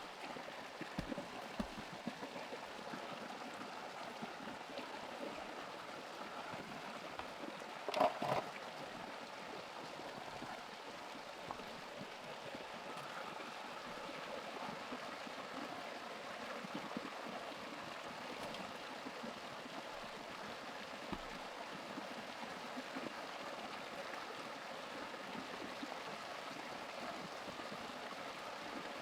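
Steady running water, like a flowing stream, with one brief clatter about eight seconds in.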